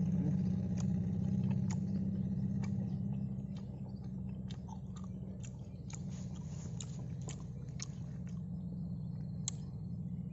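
Close chewing and biting of fried cireng, with many short wet mouth clicks. A steady low engine hum runs behind it and grows quieter about four seconds in.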